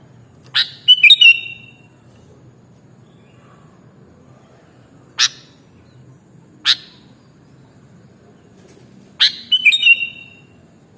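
Sooty-headed bulbul (kutilang) calling: a quick burst of sharp notes ending in short downward-sliding whistles about a second in, two single sharp calls in the middle, and the same burst again near the end.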